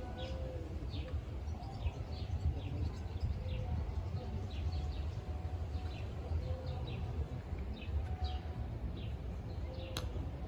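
Small birds chirping, short high chirps repeating about once or twice a second, over a steady low rumble. A single sharp click near the end.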